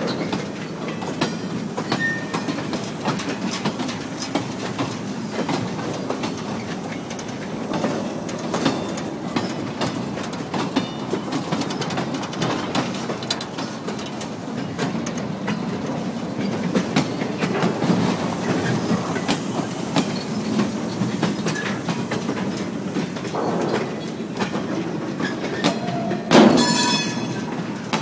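Freight cars rolling slowly past on yard track, wheels clicking over rail joints with scattered clanks. Near the end a brief, loud metallic screech of wheels squealing.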